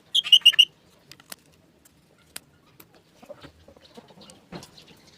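A bird chirping: a quick run of four or five sharp, high chirps near the start, followed by a few scattered clicks.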